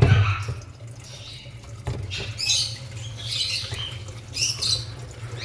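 Water splashing as a boiled, soaked mix of wheat, broken maize and lentils is rinsed in a bowl, in irregular spurts, with a sharp knock at the start.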